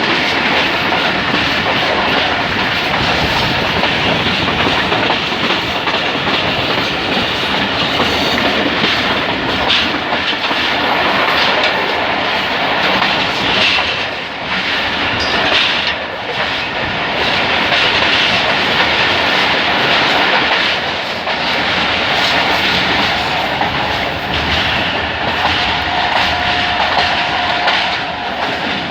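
Passenger express train running at slow speed, its wheels clattering steadily over the rail joints.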